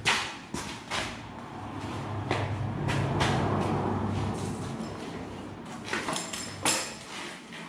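Knocks and clanks, with a stretch of scraping in the middle and a brief metallic ring near the end, as a wheel-less Yamaha YZ125 dirt bike is lifted and set up on a chair.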